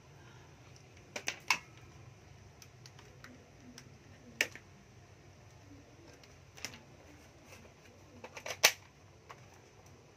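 Scattered sharp clicks and knocks of hard objects being handled, a few single ones and a quick cluster near the end that is the loudest.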